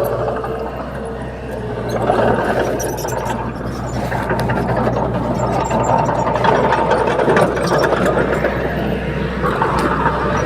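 Bulldozer diesel engine running steadily with a rough working noise over its low hum, getting louder about two seconds in.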